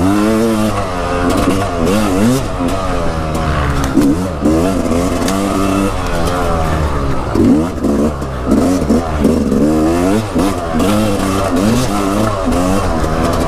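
Dirt bike engine revving up and down over and over as the throttle is worked and the bike is ridden hard along a trail.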